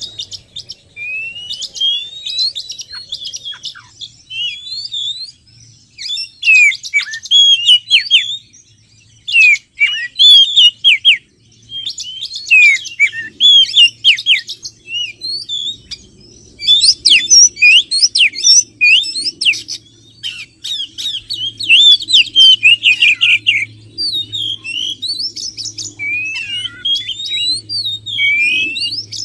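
Oriental magpie-robin (kacer) singing: loud, rapid phrases of varied whistles, sweeping notes and chattering trills, coming in bursts separated by short pauses. It is a recorded song played as a lure to draw wild magpie-robins in.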